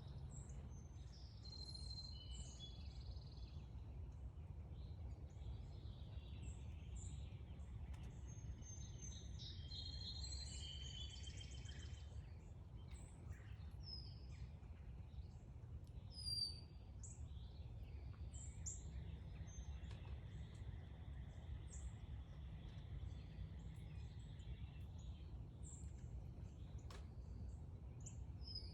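Several songbirds chirping and singing: short high chirps scattered throughout, with a couple of longer warbled phrases about two seconds in and around the middle. A steady low rumble sits underneath.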